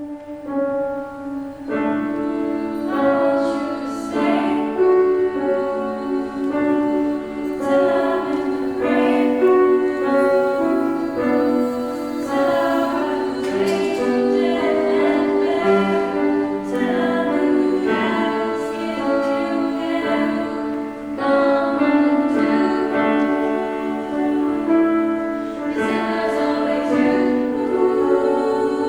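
A vocal group singing a song in harmony, several voices holding notes together.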